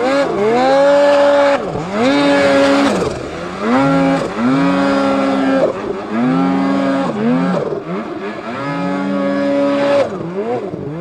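Snowmobile two-stroke engine revved in repeated throttle bursts, about five times: each time the pitch climbs quickly, holds high for a second or two, then drops away, as the sled is worked up a steep, rocky chute.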